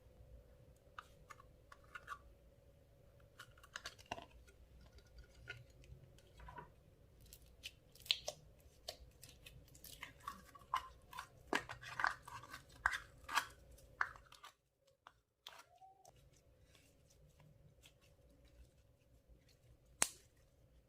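Clear slime being worked by hand, giving irregular sticky clicks and crackles, thickest in the middle, with a single sharp click near the end.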